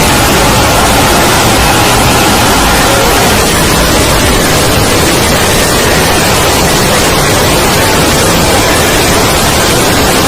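Loud, steady static hiss spread evenly from low to high pitch, with no speech or music in it.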